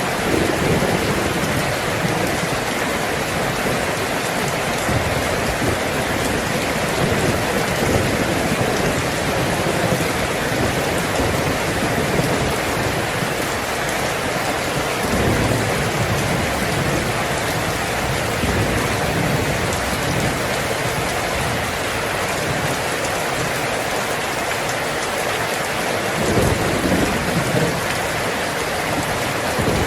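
Heavy rain drumming steadily on a tin roof, with low rumbles of thunder swelling about halfway through and again near the end.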